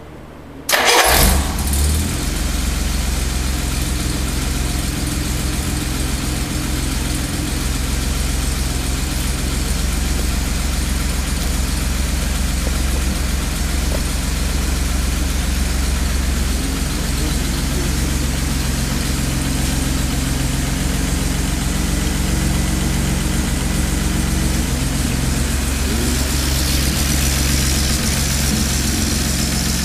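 1958 Jaguar engine on a run stand starting about a second in, catching at once, then running steadily at idle.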